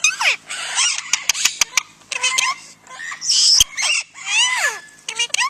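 Pet parrot vocalising: a run of sliding whistles rising and falling in pitch, with a few sharp clicks about a second and a half in and a short harsh squawk a little past the middle.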